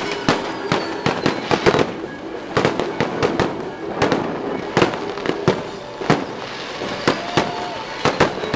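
Fireworks going off: an irregular run of sharp bangs and crackles, several a second.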